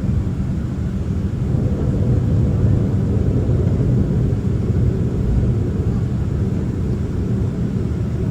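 Steady low cabin rumble inside a Boeing 767-300ER on the ground after landing, its engines idling.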